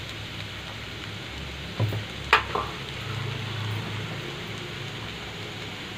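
Shredded cabbage frying in a steel kadai with a steady low sizzle, as salt is sprinkled in. A couple of short, sharp knocks about two seconds in.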